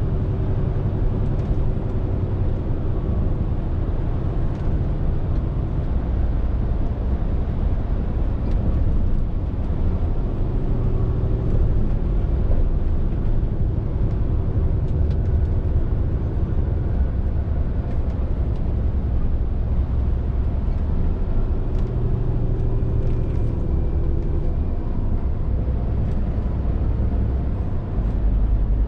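Scania R450 lorry's six-cylinder diesel engine running steadily while driving, over road and tyre noise. The engine note changes several times as speed and load shift, with a step in the low drone just before the end.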